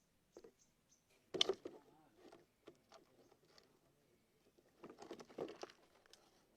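Scattered light clicks and two short bursts of rustling and scraping, the louder about a second and a half in and another around five seconds in.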